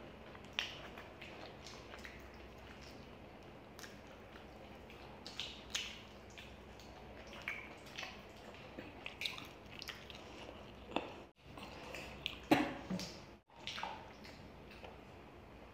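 Close-miked eating sounds: wet chewing, lip smacks and scattered small crunches as fried chicken and noodles are eaten by hand. The sound cuts out briefly twice, about eleven and thirteen seconds in, around the loudest mouth sound.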